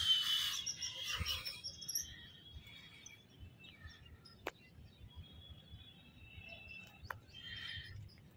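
Birds chirping, most in the first couple of seconds and fainter after, with two short faint clicks later on.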